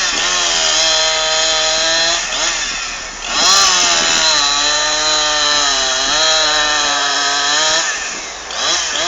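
Gasoline chainsaw running at high throttle in two long stretches, easing off briefly between them and again near the end before a short rev. The pitch sags in the middle of the second stretch.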